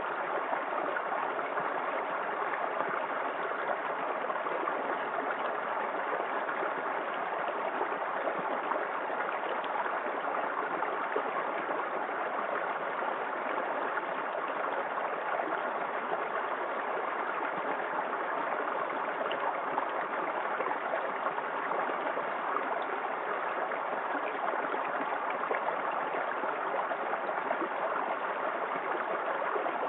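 Small waterfall in a forest creek: water pouring and splashing in a steady, unbroken rush.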